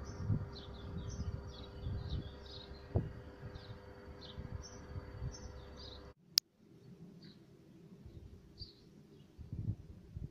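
Small birds chirping repeatedly, with a low gusty rumble of wind on the microphone and a faint steady hum. A single sharp click about six seconds in, after which the rumble and hum drop away and only the chirping carries on.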